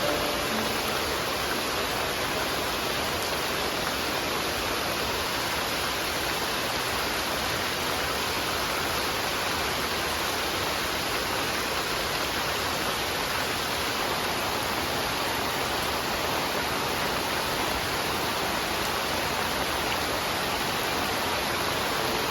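Steady, even rushing noise with no breaks or rhythm.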